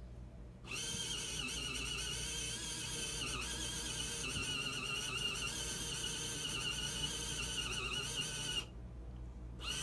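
Small motor of a portable foldable washing machine running with a high, slightly wavering whine. It stops for under a second just after the start and again for about a second near the end.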